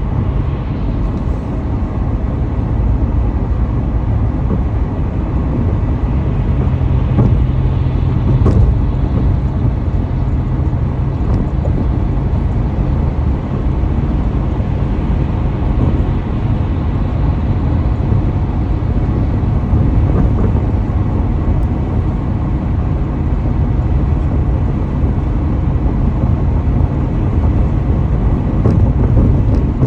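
Car driving at highway speed: a steady, heavy rumble of road and engine noise.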